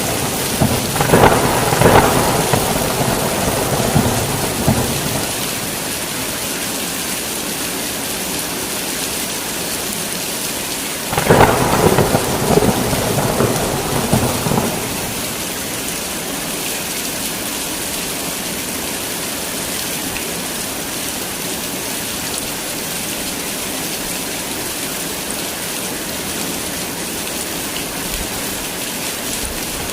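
Heavy rain falling in a steady hiss, with two peals of thunder rolling over it: one in the first few seconds, and a sharper clap about eleven seconds in that rumbles on for a few seconds.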